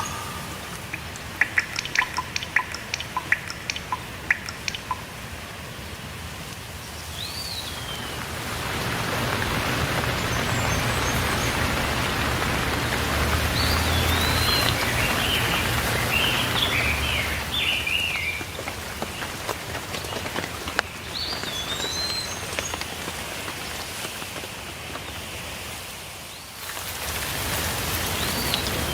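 Steady rainfall with sharp, loud drips in the first few seconds, the rain swelling louder from about eight seconds in and jumping up again abruptly near the end. Birds chirp over it every several seconds with short rising calls, and a brief twittering phrase comes midway.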